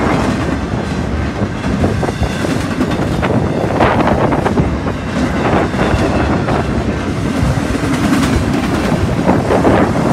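Cars of a BNSF intermodal freight train rolling steadily past at close range: a continuous rumble of wheels on rail with repeated clacks.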